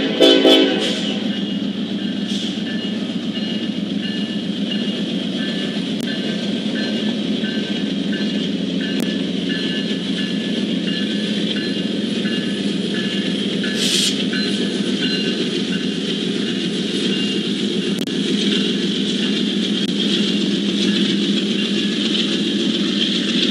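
Diesel locomotives of an approaching freight train running, a steady noisy drone that grows a little louder near the end. A brief loud sound comes in the first second.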